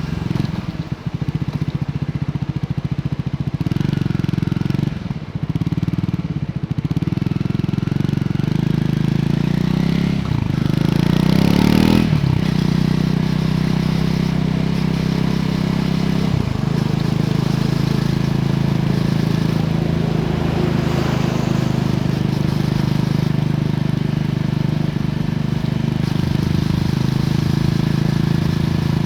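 Triumph Scrambler 400X's single-cylinder engine running through its stock exhaust while riding. The revs dip briefly a few times in the first seven seconds, climb for about two seconds and then fall away sharply at a gear change, drop again about four seconds later, and then hold a steady cruising note.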